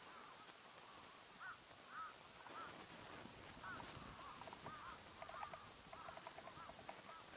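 Faint bird calls: scattered short chirps, then about five seconds in a quick run of repeated short notes, over a low steady background hiss.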